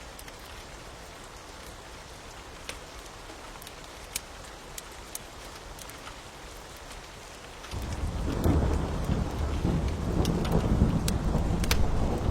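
Steady rain with a wood fire's scattered sharp crackles and pops; about two-thirds of the way in, a loud low rumble of thunder sets in suddenly and keeps rolling.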